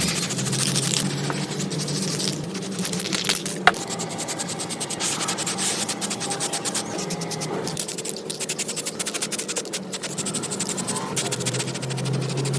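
Rapid, rhythmic back-and-forth scraping by hand on a part, several strokes a second, over a steady low hum.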